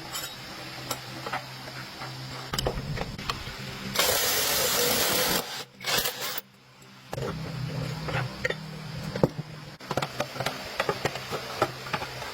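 Workshop noise: a steady low hum with scattered clicks and knocks, broken about four seconds in by a loud hiss like a spray or air jet that lasts about a second and a half.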